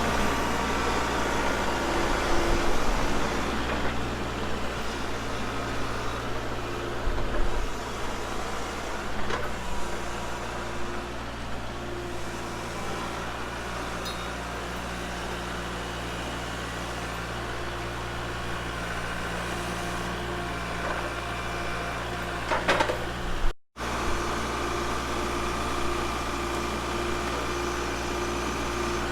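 Kubota MX 5200 tractor's diesel engine running steadily, with a brief break about three-quarters of the way through.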